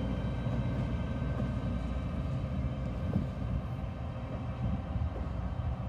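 Diesel freight locomotive running as it pulls away with a train of covered hopper cars: a steady engine rumble mixed with the cars rolling on the rails, and a single knock about three seconds in.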